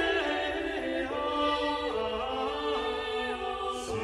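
Music: a small unaccompanied vocal ensemble singing several parts at once in Renaissance choral style, the voices moving in held steps from note to note.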